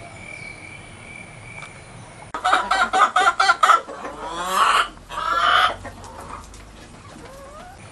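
Domestic chicken clucking: a quick run of short clucks about two seconds in, followed by two longer drawn-out calls.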